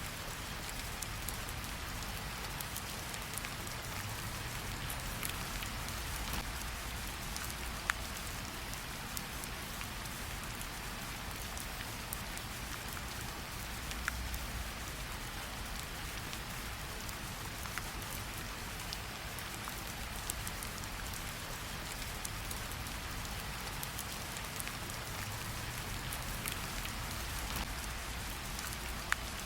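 Steady rain falling on leaves and water, an even hiss with scattered close drop splashes, a few sharper ones standing out.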